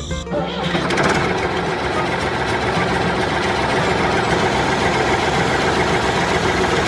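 A homemade mini tractor's motor running steadily with a rough, rapid pulsing. It comes in as background music cuts off just after the start.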